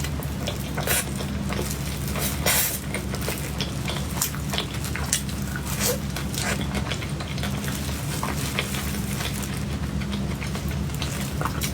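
Close-miked eating sounds of cake being eaten: wet chewing and mouth smacks with occasional light clicks of a fork or spoon, over a steady low hum.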